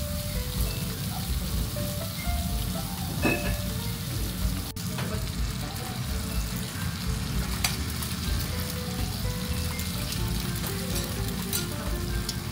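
Bacon and eggs sizzling on a hot steel teppanyaki griddle, a steady frying hiss, with light background music.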